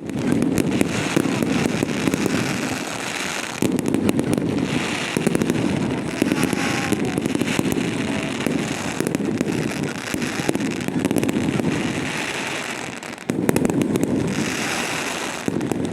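Fireworks display: a dense, continuous run of bursts and rapid crackling pops over a low rumble, with heavier volleys about four seconds in and again near the end.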